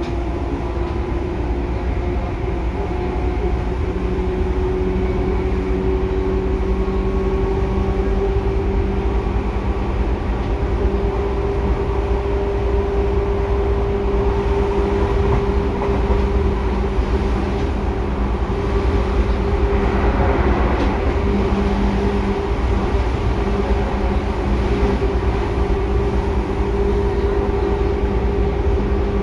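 Seibu 2000 series electric train running along the line, heard from inside the car: a steady rumble of wheels on rail under a held hum whose pitch rises slightly over the first few seconds and then stays level. There is a brief swell of rumble about twenty seconds in.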